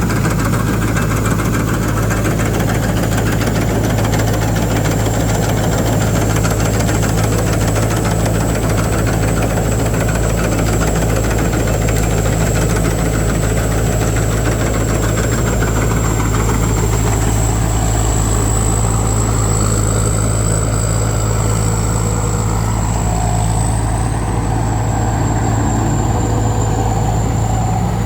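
Combine harvester's diesel engine running steadily while harvesting rice: a deep, even drone with a thin, steady high whine over it.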